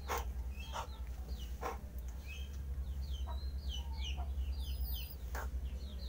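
Birds calling: many short, quick chirps, with a few short sharp sounds mixed in, over a steady low hum.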